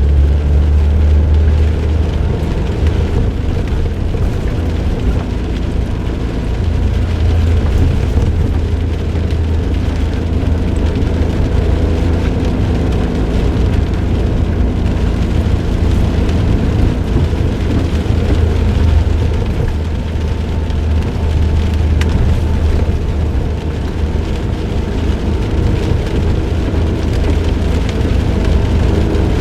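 Suzuki Jimny JB23W's 660 cc turbocharged three-cylinder engine running steadily under way through an aftermarket muffler, heard from inside the car with tyre and road noise.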